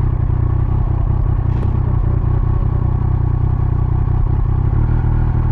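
Triumph Speed Triple 1200 RS's three-cylinder engine running at a steady note, its pitch shifting slightly near the end.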